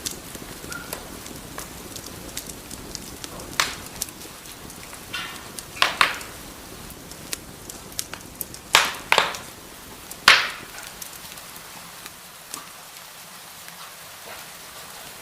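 Wood fire crackling in a fireplace: a steady soft hiss with many small ticks and several sharp loud pops, the loudest about ten seconds in.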